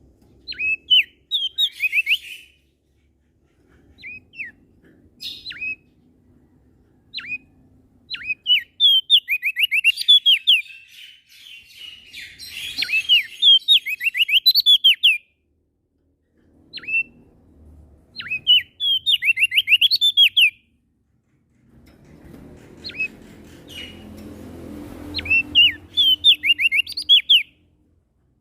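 A small songbird singing in bursts of quick, sharp down-slurred whistled notes, several rapid phrases broken by short pauses. A low rumble sits under the song for the last few seconds.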